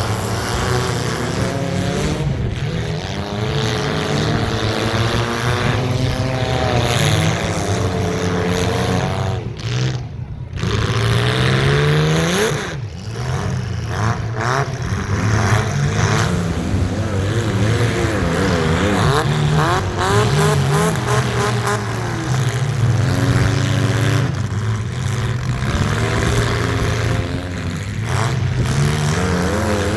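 Several compact cars' engines running and revving together in a demolition derby, their pitches rising and falling as the drivers accelerate and back off.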